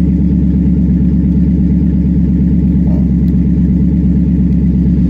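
2009 Dodge Challenger SRT8's 6.1-litre Hemi V8 idling steadily and loudly through its Corsa exhaust, with the exhaust baffles open.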